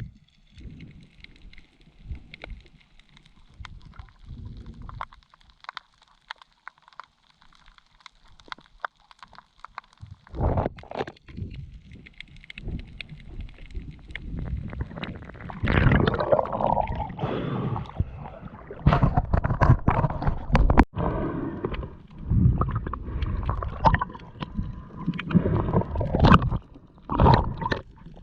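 Muffled gurgling and sloshing water heard underwater, in irregular surges that grow louder and busier after the first third.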